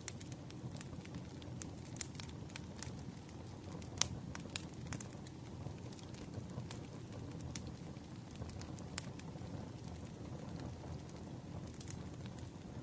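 Wood fire crackling: irregular sharp pops and snaps over a steady low rumble, with a louder pop about four seconds in.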